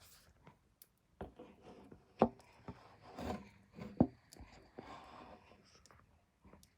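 Japanese katydid chewing a cicada: irregular dry crunching and scraping, with two sharp cracks about two and four seconds in.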